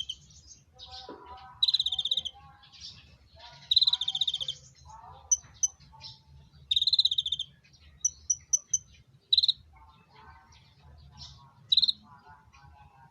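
Small songbirds (konin) calling: loud buzzy trills about a second long, repeated several times, with short high pips in quick runs between them and softer twittering lower down.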